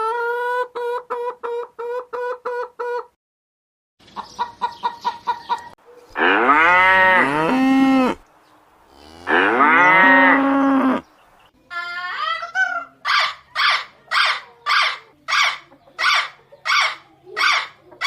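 A cow mooing twice, two long loud calls that settle onto a low steady note. Before them come quick runs of short repeated animal calls, and after them short, evenly spaced calls of a farm bird, about two a second.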